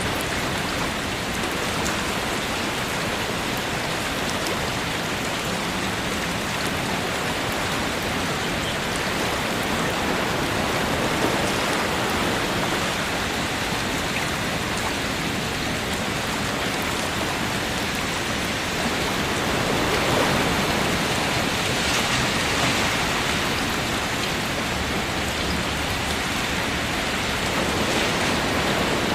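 Steady, heavy rainfall mixed with ocean waves, the sound rising in slow swells a few times as waves wash in.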